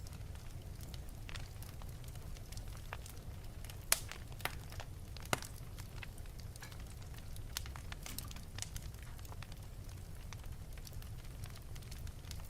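Wood fire burning in an open fireplace: irregular crackles and pops over a steady low rumble of the flames, with a few sharper pops about four and five seconds in.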